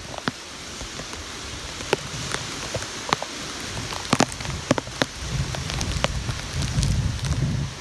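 Steady rain falling hard, with single large drops striking close by as sharp clicks. A low rumble swells in the second half.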